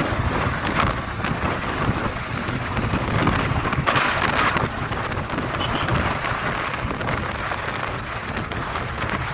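Wind rushing over the microphone on a moving motorcycle, with a low rumble of the bike and road underneath; the rush grows louder and brighter about four seconds in.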